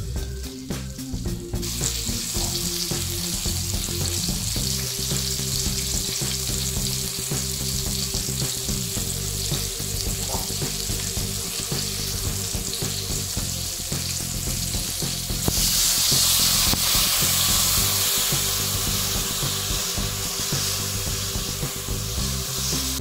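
Dried fish, tomato and onion sizzling in hot oil in an aluminium wok, over steady background music. The sizzle grows much louder about two-thirds of the way through, as liquid goes into the hot pan.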